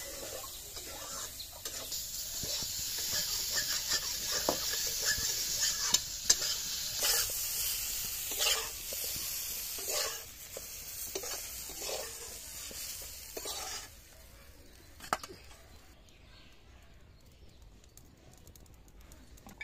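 Vegetable pieces sizzling in hot oil in an iron kadai, with a metal spatula scraping and clicking against the pan as they are stirred. About two-thirds of the way through, the sizzling stops and it goes much quieter, with one brief knock a little later.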